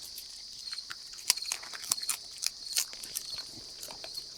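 Raccoons eating, with many irregular sharp crunches and clicks as they chew their food. A steady, high-pitched insect chorus runs underneath.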